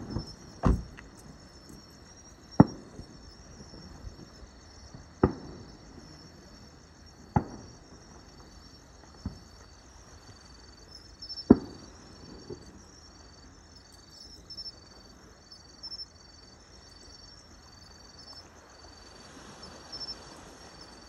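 Fireworks shells bursting: about eight sharp bangs, one every second or two, through the first half, then none for the rest. A steady high insect chirping runs underneath.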